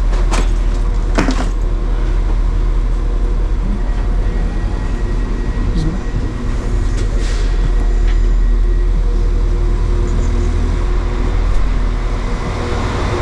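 Steady low rumble of a running vehicle, with a constant hum and a few short knocks near the start.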